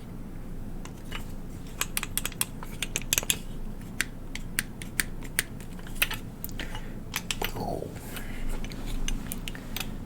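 Broken toy gun handled up close, its loose parts giving an irregular run of sharp clicks and rattles, with a short falling creak about two thirds of the way through.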